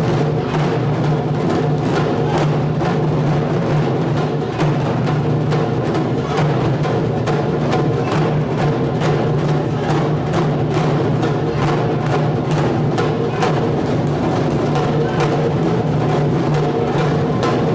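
Ensemble of Japanese taiko drums playing continuously, with dense, rapid strikes at a steady loudness.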